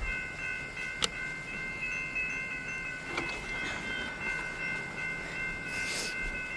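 Metra train passing with a steady, high, three-note tone that starts suddenly and is held throughout. There is a sharp click about a second in.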